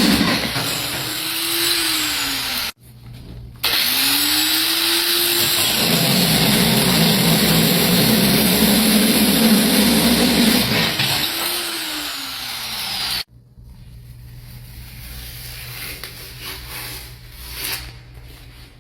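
Angle grinder with a core bit, slowed by a dimmer switch, coring a faucet hole through a stone sink top; the motor's pitch rises and falls as the bit loads up. It stops briefly about three seconds in, then cuts off about thirteen seconds in, leaving quieter knocks.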